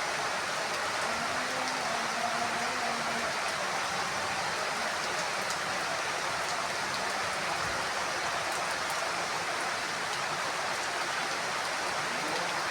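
Heavy rain falling steadily on a house roof, an even hiss with no thunder.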